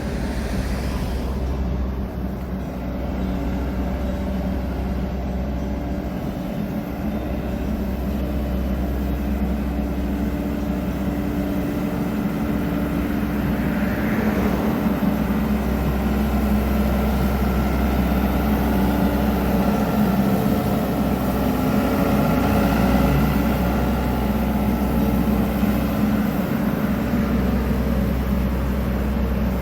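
An engine running steadily with a low hum, growing slightly louder through the middle.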